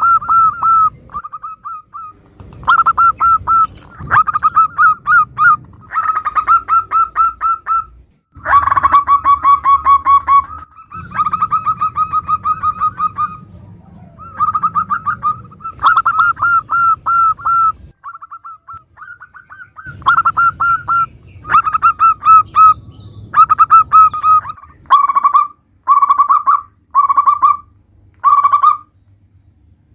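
Zebra doves (perkutut) cooing: phrases of quick, rolling notes in bursts of one to a few seconds with short pauses between. Near the end the calls come as shorter separate phrases about a second apart.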